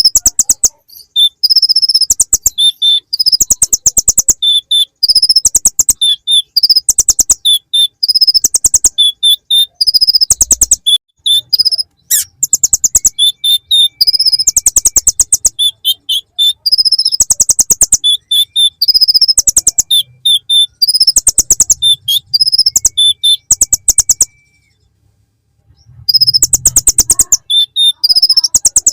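Van Hasselt's sunbird (kolibri ninja) singing phrase after phrase of loud, very fast, high trills in the manner of the bar-winged prinia (ciblek), with short gaps between phrases and a pause of about a second and a half near the end.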